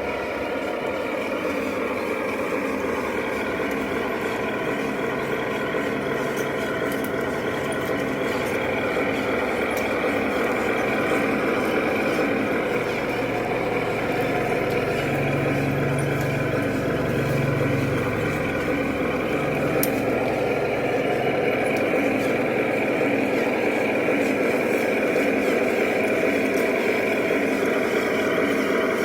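Remote-control 8x8 truck running: a steady mechanical drone whose pitch drifts slowly up and down, growing a little louder in the second half.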